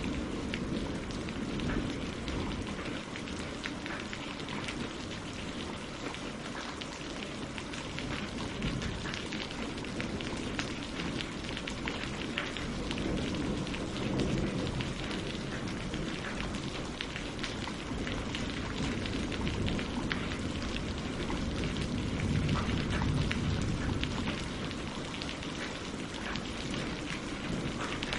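Steady rain falling on leaves and lake water, a dense patter of many small drops, with a low rumble that swells and fades now and then.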